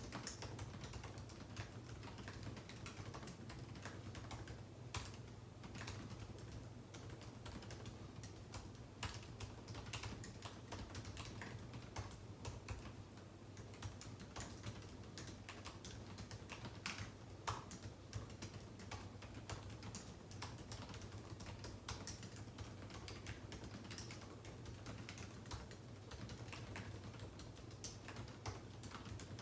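Typing on a computer keyboard: a steady run of irregular key clicks, with a low steady hum beneath.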